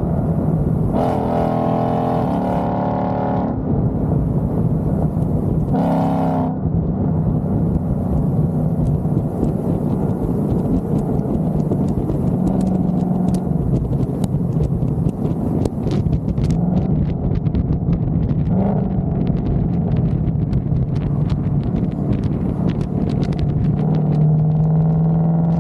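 Car engine pulling hard, its pitch rising and falling through the run. It is louder and coarser in the first few seconds, with scattered sharp ticks and rattles over the later part.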